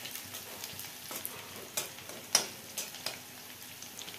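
Chopped green chillies and crushed garlic sizzling in hot oil in a kadhai while the garlic browns. They are stirred with a metal spatula that scrapes and taps against the pan a few times, the sharpest tap about two seconds in.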